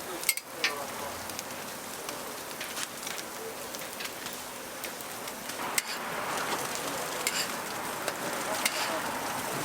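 Oil sizzling and crackling on a griddle as sorghum pancakes (bukkumi) fry, with a few sharp clicks.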